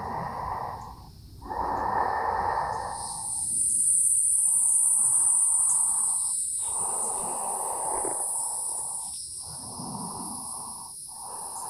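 Slow, deep human breathing: about six long, audible breaths in and out, one after another with short pauses between.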